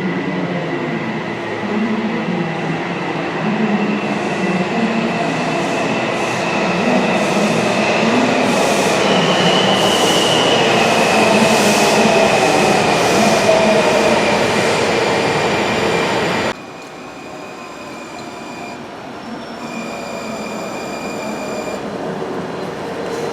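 Washington Metro railcars running through a station with wheels squealing, rhythmic clicks from the track, and a whine that falls in pitch. About two-thirds of the way in, the sound cuts suddenly to a quieter hum with steady high tones.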